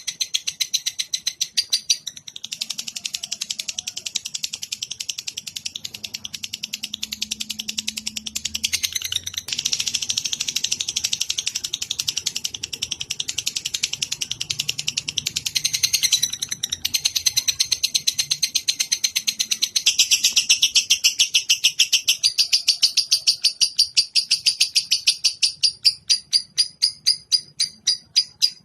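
Bird giving a long, rapid chattering trill of fast-repeated high notes. It runs on with a few brief breaks and shifts in pattern, and gets louder after about twenty seconds.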